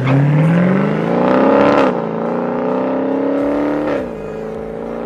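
Car engine at full acceleration, revving up through the gears. Its pitch climbs, falls at an upshift about two seconds in, climbs again, and falls at a second shift about four seconds in.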